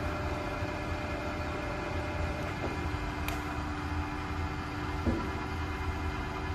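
A machine's motor running: a steady hum made of several fixed tones over a low drone, with a light click or two.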